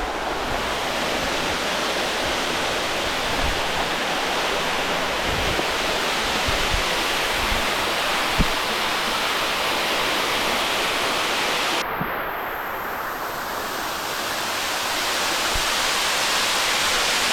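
Waterfall running: a steady rush of falling water. About twelve seconds in the sound changes abruptly, losing some of its hiss.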